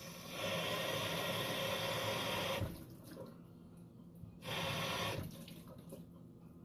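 Kitchen sink faucet running as raw chicken breasts are rinsed under it: one run of about two seconds starting half a second in, then a brief second spurt about four and a half seconds in.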